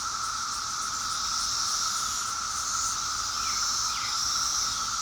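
Steady outdoor chorus of insects, like crickets, in a high and a mid pitch, with two faint short falling chirps about three and a half and four seconds in.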